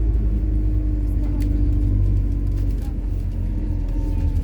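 Inside a MAZ-103 city bus running on methane while under way: a steady low engine and road rumble, with a faint whine drifting slightly lower. It eases off a little about three seconds in.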